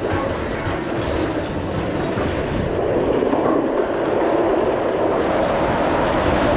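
Vekoma roller coaster train rattling along its steel track, a steady clatter that grows gradually louder.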